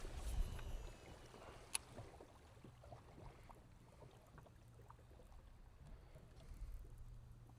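Quiet handling sounds aboard a fishing kayak: faint knocks and ticks of gear and hull, with one sharp click about two seconds in, over a low steady hum.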